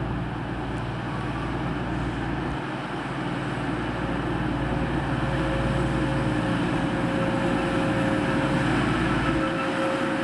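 Diesel train running at the station, a steady engine rumble with a held whine, slowly growing louder.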